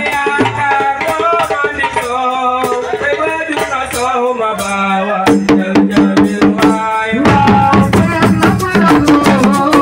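Assiko band music: drums and rattles keeping a steady rhythm under a melodic line of held notes. The drumming grows louder and busier in the second half.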